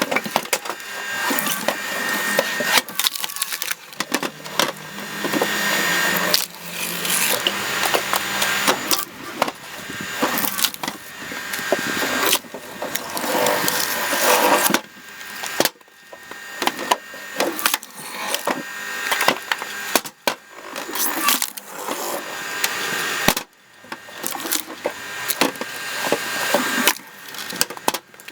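Cone log splitter driving its threaded cone into logs, the wood cracking and splintering as the cone bursts them apart. It goes in repeated pushes, each building up and then breaking off suddenly.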